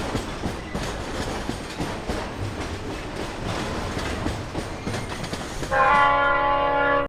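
Wagons of a freight train rolling past with the clickety-clack of wheels over rail joints. About six seconds in, a loud multi-note train horn sounds for just over a second, then cuts off sharply.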